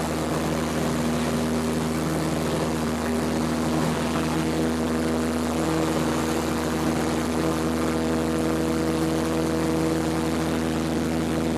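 Cessna 172P's four-cylinder Lycoming engine and propeller running steadily: an even drone whose pitch holds constant.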